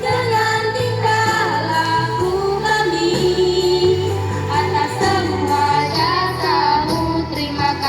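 Girls' choir singing a melody with long held notes and some sliding between pitches, over a steady low accompaniment.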